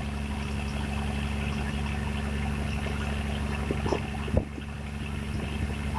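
An engine running steadily at an even speed, with a single short knock a little after four seconds in.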